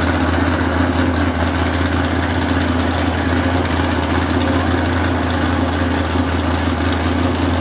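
A vehicle engine idling steadily, a low even drone that neither revs nor changes.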